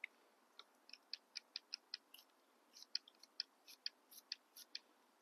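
Faint, quick clicking of a ratchet wrench as an exhaust header nut is worked loose, in short irregular runs of about three to four clicks a second.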